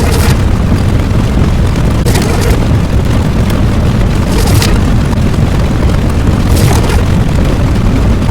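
Loud, continuous low rumbling sound effect with a short hissing burst about every two seconds.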